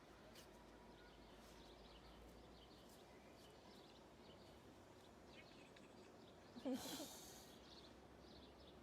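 Near silence: faint outdoor ambience with scattered faint high chirps, broken about seven seconds in by one brief, louder sound with a short pitched call and a hiss.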